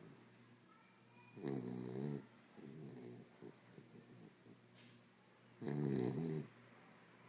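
Corgi snoring in its sleep: two loud snores about four seconds apart, with quieter breathing between them.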